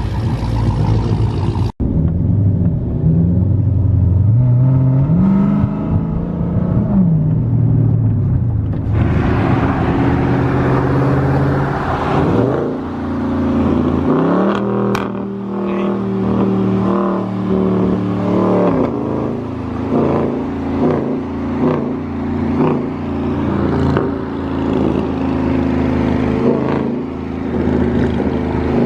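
Car engine revving repeatedly, its pitch climbing and falling, held at a steady pitch for several seconds around the middle.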